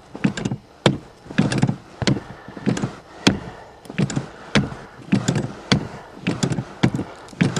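Accelerator pedal of a carbureted car being pumped over and over before a cold start without choke, each stroke a sharp knock or thunk from the pedal and linkage, about two a second.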